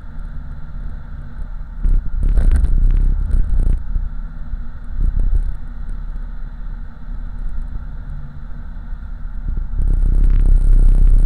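5.3-litre LS V8 of a swapped 1987 Oldsmobile Cutlass running while cruising, heard from inside the cabin as a steady low rumble with road noise. It gets louder twice, about two seconds in and again near the end.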